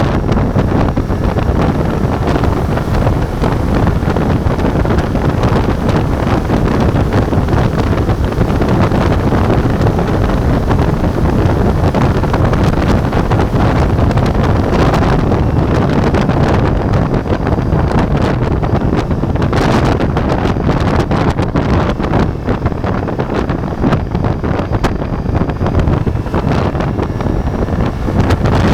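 Ducati Multistrada V4 motorcycle's V4 engine running under way, buried in heavy wind buffeting on the microphone. The wind rush is steady and loud, with rougher gusty crackles in the second half.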